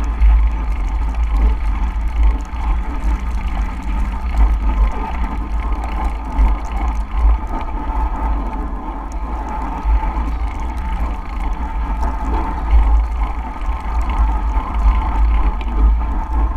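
Wind buffeting the microphone in a snowstorm: a heavy, uneven low rumble with a steady hiss above it.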